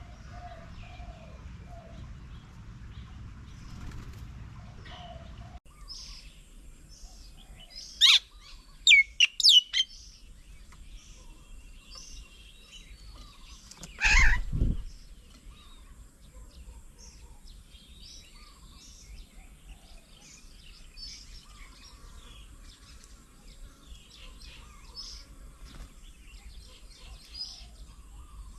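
Small birds chirping and calling around a bird table, with four loud, sharp calls sliding down in pitch about a third of the way in. About halfway through comes a single loud, brief thump close by.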